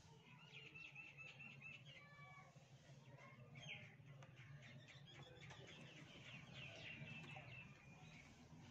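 Faint bird chirping, with runs of quick short notes, over a steady low hum.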